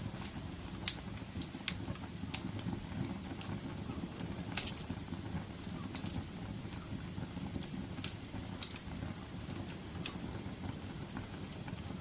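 Wood fire burning: a steady low rumble of flames with irregular sharp crackles and pops, the loudest about a second in.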